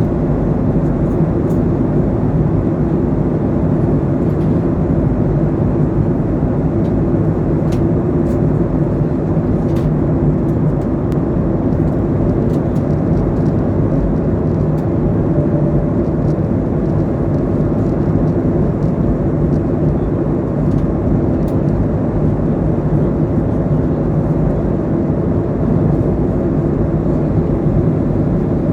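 Steady engine drone and air noise inside an airliner cabin, a low hum that stays even throughout, with a few faint ticks.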